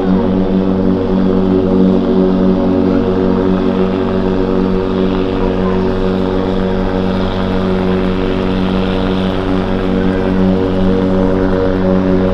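Ambient relaxation music: a sustained synthesizer drone of several held tones that stays steady throughout.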